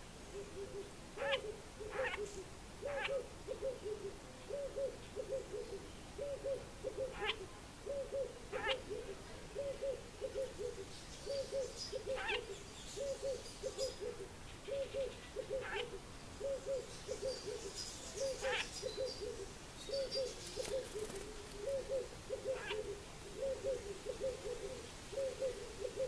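Low hooting or cooing of a bird: a quick two- or three-note phrase repeated over and over, a little faster than once a second. Sharp single chips from another bird and some high twittering are heard in the middle.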